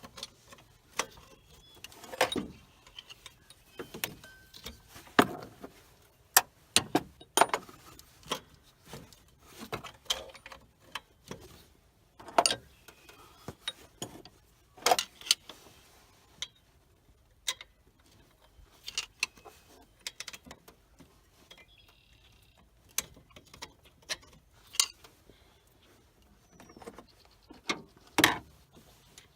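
Hand tools clinking and knocking on metal in a truck's engine bay as an alternator is fitted and bolted in: scattered, irregular sharp clicks and knocks, the loudest a few seconds apart.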